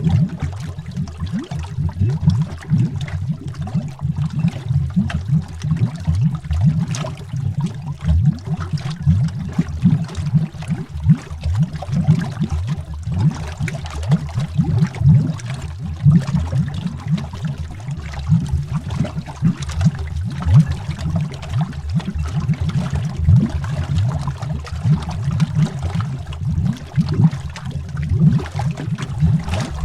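Underwater bubbles: a dense, unbroken run of bubble pops, mostly low and deep in pitch.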